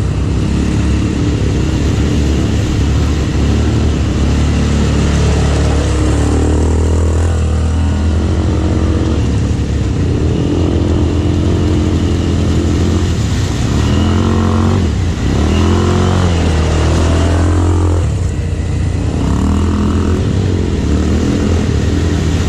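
ATV engine running while riding, its pitch rising and falling as the throttle opens and closes.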